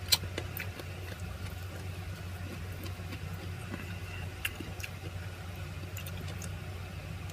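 Eating sounds from someone tearing and chewing grilled chicken by hand: scattered short wet clicks and smacks, the sharpest right at the start, over a steady low hum.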